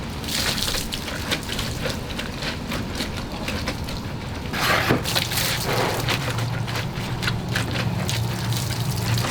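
Water splashing and dripping while a car is washed by hand, with many small clicks, a louder swish of water about five seconds in, and a low steady hum underneath.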